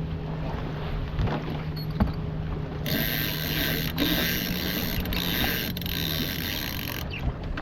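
A sailboat's sheet winch being turned, its pawls ratcheting in a fast, dense clicking for about four seconds before stopping abruptly, over wind and water noise.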